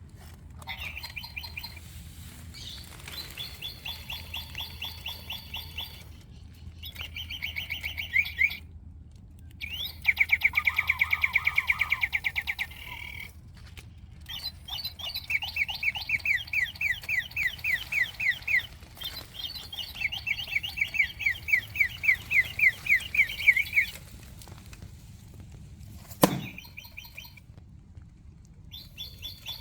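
Singing toy birds playing electronic bird chirps: runs of rapid, evenly repeated chirps that stop abruptly and start again several times. A single sharp click about 26 seconds in.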